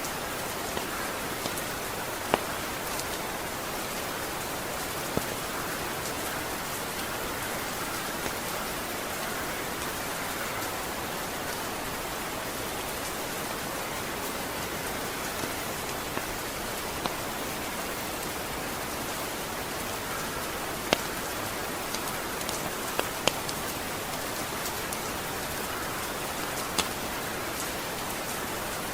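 Steady rain falling, an even hiss, with a few sharper drip taps standing out now and then.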